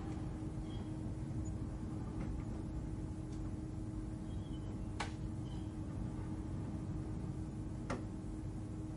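Gentle ambient space hum: a steady low rumble with a faint held tone, broken by two sharp clicks about three seconds apart.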